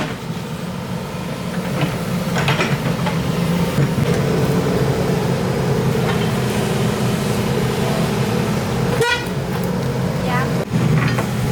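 Excavator's diesel engine running steadily under load, with a sharp metallic clank about nine seconds in and a few lighter knocks.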